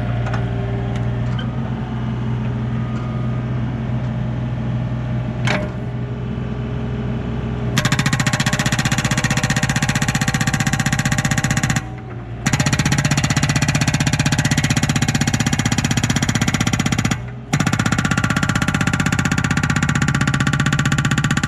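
Excavator engine running steadily, with a single sharp crack about five seconds in. Then, about eight seconds in, the Yanmar B37's hydraulic breaker hammer starts firing in a rapid steady pounding against a soft pine stump, pausing briefly twice.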